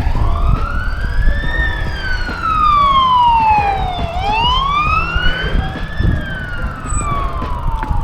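Emergency vehicle siren in a wail pattern, its pitch slowly rising and falling twice, with low rumbling noise underneath.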